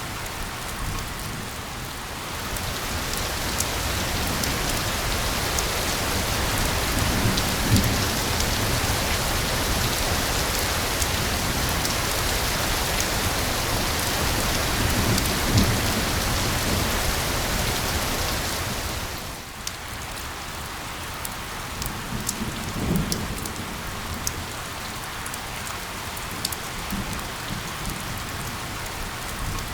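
Steady rain on a surface, a dense hiss with individual drops ticking. It grows heavier about two seconds in and eases back abruptly around two-thirds of the way through, with a few low thunder rumbles.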